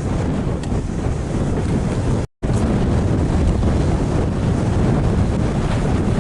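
Strong wind buffeting the microphone, a loud, steady, deep rush with no let-up, cut off for a moment about two seconds in.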